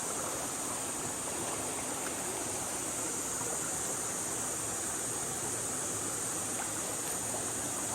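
Steady, even rush of water falling and flowing at a waterfall.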